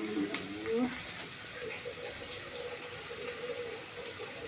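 Onions and garlic frying in olive oil in a pot, a steady sizzle.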